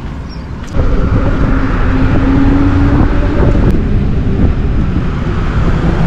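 Wind rush and road noise from a Zero electric motorcycle under way, jumping up suddenly less than a second in as the bike moves off and then holding steady, with a faint tone that rises slightly in the middle.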